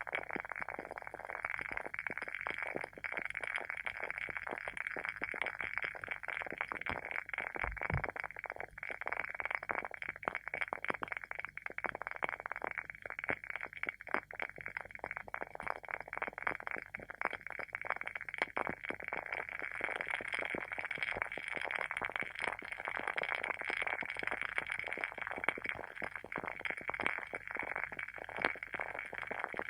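Wooden wick of a WoodWick candle crackling as it burns: a steady, dense stream of small pops and snaps, like a tiny bonfire.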